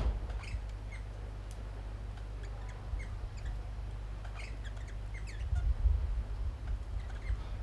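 Birds calling at a feeding spot: short, scattered chirps and squawks, several a second, over a low rumble that swells about two-thirds of the way through.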